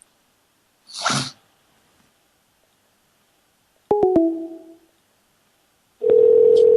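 Telephone line sounds as a call drops and is redialed: a brief noise about a second in, a few sharp clicks with short fading chime-like tones about four seconds in, then a steady ringing tone for just over a second.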